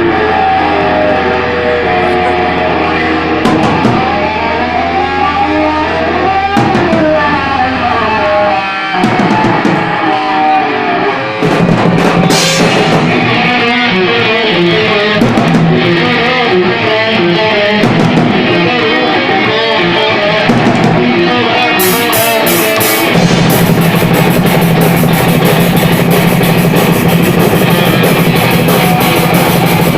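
A heavy metal band playing: distorted electric guitars, bass and drum kit. A low droning note drops out about nine seconds in, the full band hits harder a couple of seconds later, and the cymbals get heavier near the last third.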